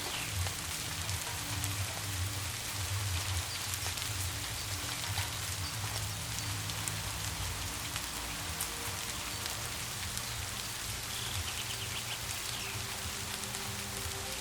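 Steady rain falling, with soft, steady low notes of background music held beneath it.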